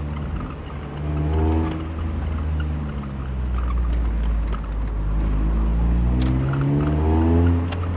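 Mazda Miata NB's four-cylinder engine and exhaust pulling up through the revs twice, the pitch rising and then dropping at a gear change each time, with a lower steady drone between.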